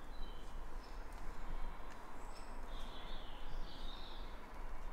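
Birds chirping outdoors over a steady background hiss, with a short flurry of calls about three seconds in.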